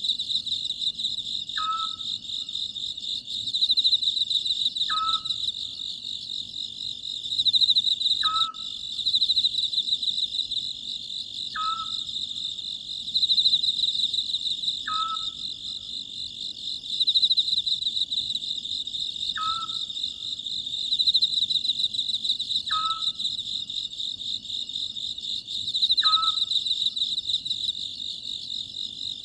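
Oriental scops owl calling at night: a single short note repeated about every three seconds. Under it runs a steady, pulsing chorus of night insects.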